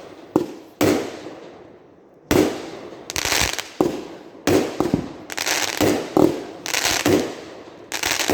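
Consumer aerial fireworks going off: a string of sharp bangs, roughly one a second, mixed with bursts of crackling.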